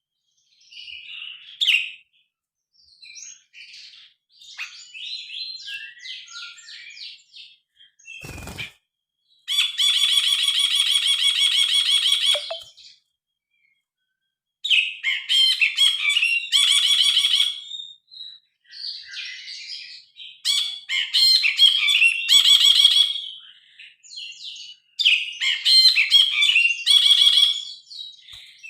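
Brinji kelabu bulbul singing varied, loud chattering phrases broken by short pauses. A long rapid trill begins about a third of the way in, and more loud bursts of song follow. A single short knock comes just before the trill.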